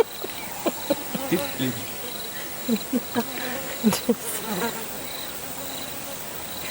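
Insects chirping steadily, a regular pulsing high chirp, with short low sounds scattered through it.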